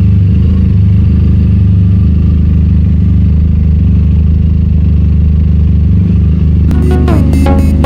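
QJ/Benelli SRK 400 parallel-twin motorcycle engine running at a steady speed through an aftermarket Akrapovic exhaust. An electronic music beat comes in near the end.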